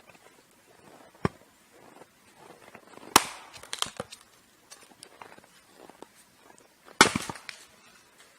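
Firewood being split by hand: a light knock about a second in, then two hard strikes about four seconds apart, each followed by a brief crackle as the wood cracks apart.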